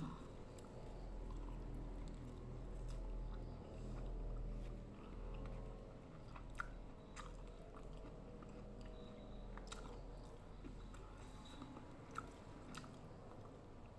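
A person chewing and biting a mouthful of rujak (rice cake, cucumber and raw vegetables in sambal) close to the microphone, with scattered short crisp clicks, over a low steady hum.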